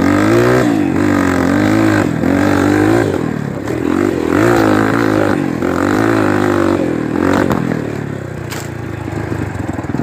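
Single-cylinder four-stroke trail motorcycle engine revving up and falling back over and over as the throttle is worked, then running lower and steadier near the end.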